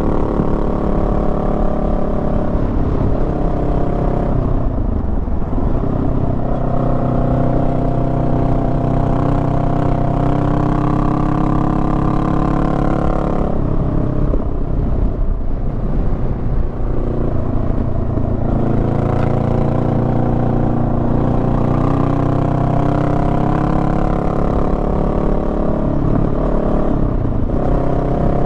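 Honda Rebel 500 parallel-twin engine running under way, its note rising and falling several times as the throttle and gears change.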